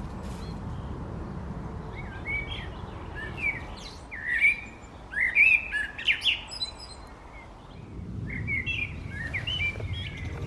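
Wild songbirds chirping and singing in a series of short rising and falling notes, loudest in a quick run about halfway through, over a steady low background hiss.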